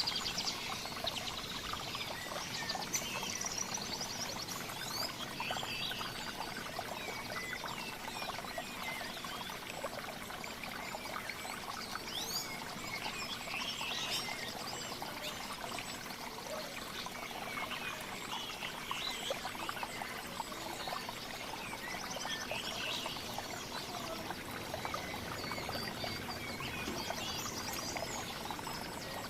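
Several small songbirds chirping and calling, with many short high notes scattered throughout over a steady, hissing background.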